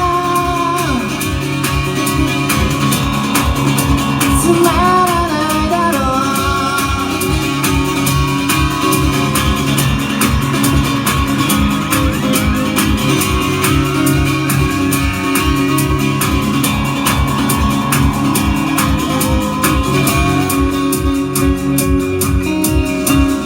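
Live band music: a singer's vocal over electric guitar and a steady drum beat, the voice dropping out after the first few seconds while the instruments play on.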